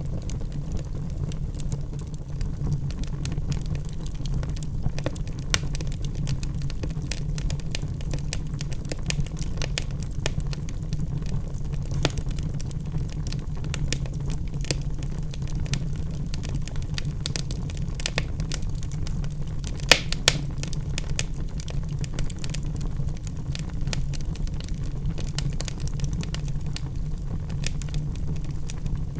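Wood fire burning in a fireplace: a steady low rumble of flames with frequent small crackles and pops, two sharper pops about twenty seconds in.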